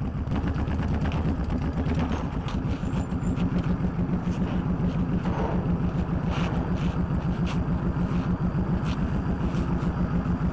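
A motorcycle engine running steadily with an even pulsing beat, with a few light clicks over it.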